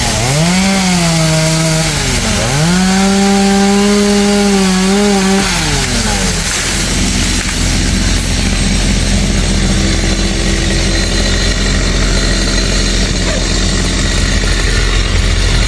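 Two-stroke chainsaw at full throttle, its high engine note dipping twice and recovering as it works through wood. About six seconds in, the pitch drops off and the saw settles into a steady low idle.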